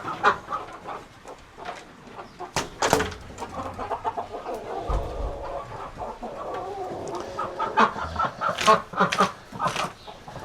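Poultry clucking and calling in short repeated notes, with a few sharp knocks and rustles of handling around the nests.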